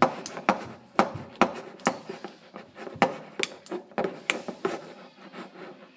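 A spoon stirring thick, sticky melted gummy bears in a container, knocking and scraping against its sides in quick irregular clicks.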